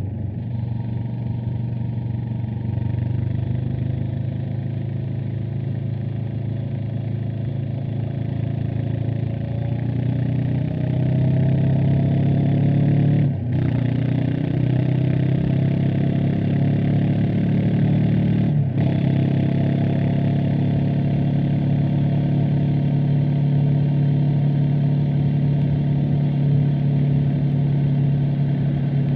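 Honda CB500X parallel-twin engine and exhaust under way, its pitch climbing as the bike accelerates. The engine note breaks off for a moment twice, about halfway and two-thirds of the way through, for upshifts, then runs steadily.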